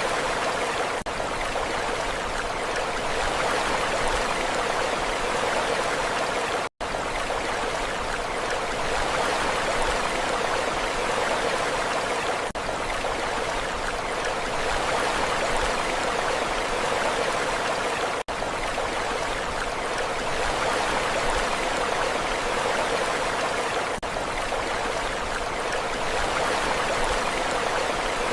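Steady rushing water with an even level and no rise and fall of waves, broken by brief gaps about every six seconds, clearest about seven and eighteen seconds in.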